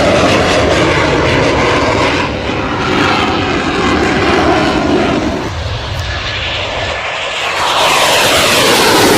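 Fighter jet flying low overhead, its jet engine noise loud throughout; near the end the sound sweeps down in pitch as it passes.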